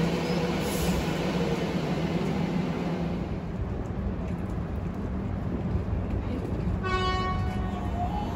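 X'Trapolis electric trains at a station platform: the steady rumble of a train fades after about three seconds. About seven seconds in, a short horn sounds for just over a second.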